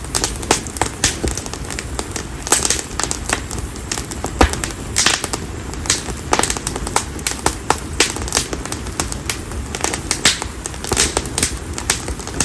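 Split konara oak (Quercus serrata) firewood burning in an open fire, crackling and popping at irregular intervals, with several louder snaps among the small ticks, over a low steady rumble.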